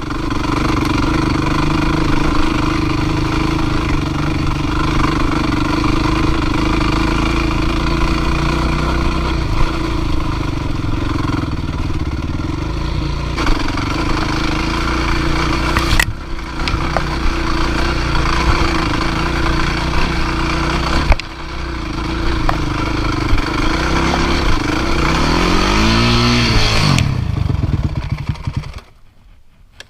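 Dirt bike engine running steadily. Late on, its pitch dips and swings back up, then the sound drops away abruptly about a second before the end.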